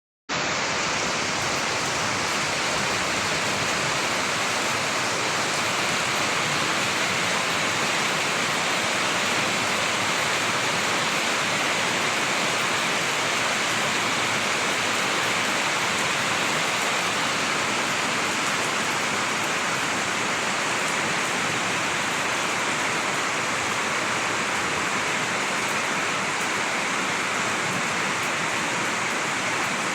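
Heavy rain falling in a steady, dense hiss, with no single drops or thunder standing out.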